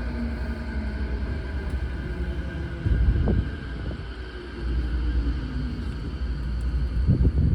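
Interior running noise of an Odakyu 4000-series electric train in a subway tunnel: a steady low rumble with thin motor tones, some slowly falling in pitch, and two heavy thumps, about three seconds in and near the end.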